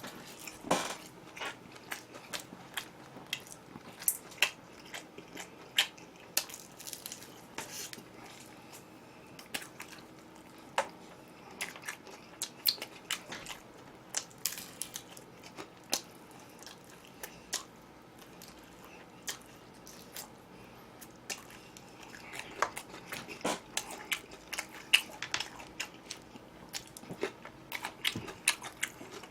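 Close-miked eating sounds: a person chewing and crunching food, with many short sharp clicks and taps of utensils against dishes.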